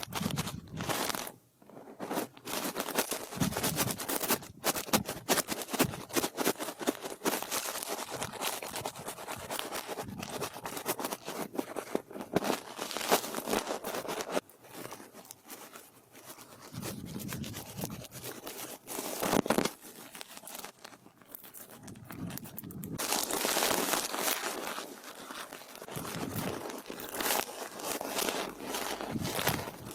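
A brush stroked and scratched against a microphone as an ASMR trigger: dense, crackly rustling strokes that keep coming, with brief lulls.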